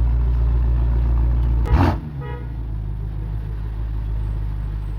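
Car engines idling with a steady low rumble. A loud thump just under two seconds in is followed by a brief car horn toot, after which the rumble is slightly quieter.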